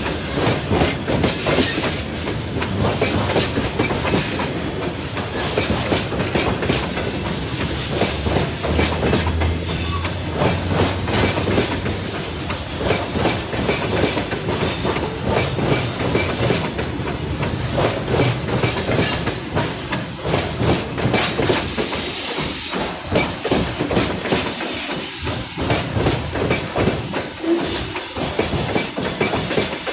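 Long freight train's wagons rolling past at speed, wheels clacking over the rail joints amid steady rumbling rail noise.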